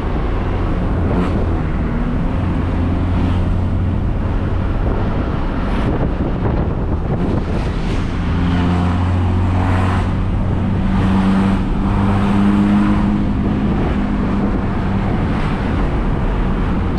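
Mitsubishi L300 pickup's diesel engine running through an aftermarket double-coil exhaust, a steady deep exhaust drone that rises a little in pitch and level in the middle.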